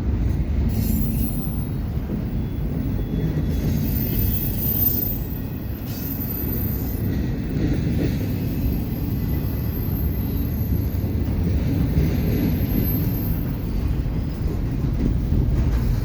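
CPKC train's cars rolling past with a steady low rumble, and a faint high-pitched wheel squeal that comes and goes.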